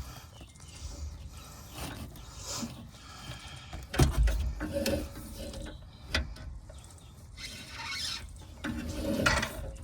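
Sewer inspection camera's push cable being pulled back, rubbing and scraping with short squeaks. A sharp knock comes about four seconds in and a smaller one near six seconds.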